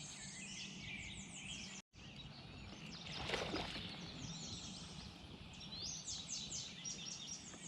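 Birds chirping outdoors, with series of quick, high, falling chirps over a faint steady background.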